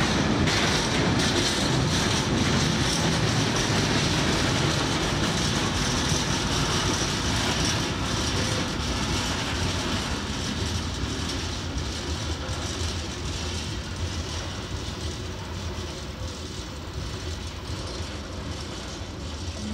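Freight train of steel ballast box wagons rolling along the rails, with wheel and track noise and clattering over the rail joints. The sound slowly fades as the wagons draw away.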